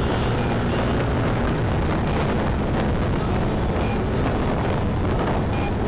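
Wind rumbling steadily over the microphone of a moving Yamaha Tricity 155 three-wheeled scooter, with its 155 cc single-cylinder engine running underneath at a steady speed.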